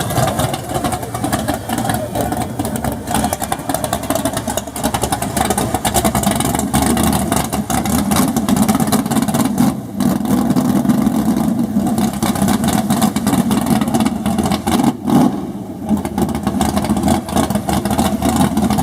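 A loud car engine being revved and held at high revs, with brief dips about ten and fifteen seconds in.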